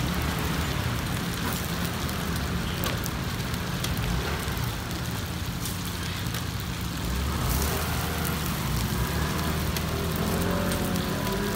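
Pan-fried stuffed buns sizzling in hot oil in a wide iron pan, with a few clinks of metal tongs as buns are lifted onto a metal tray, over a steady low rumble.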